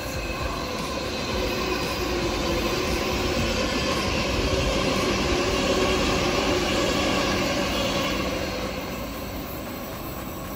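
ICE high-speed electric train passing by on the station tracks: a steady rolling rumble that swells to its loudest about six seconds in, then fades as the train moves away.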